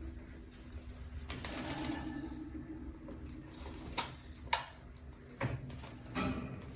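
Alexandrine parakeet bathing: water splashing as it flutters in the bath, with a longer splash about a second in, then a couple of sharp knocks and a few short splashes.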